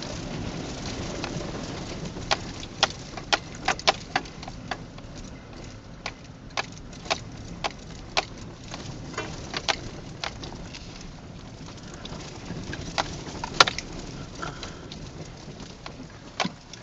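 Steady car road and engine noise heard from inside the vehicle while driving, with sharp irregular clicks and ticks scattered throughout, one louder click about two-thirds of the way through.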